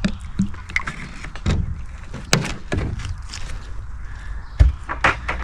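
Container of used motor oil being handled and poured onto plywood: scattered knocks and clicks, with one heavy thump about four and a half seconds in.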